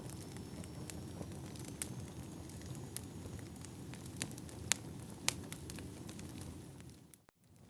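Firewood burning: a steady low rush of flame with scattered sharp crackles and pops, two of them louder about the middle. The sound drops out briefly near the end.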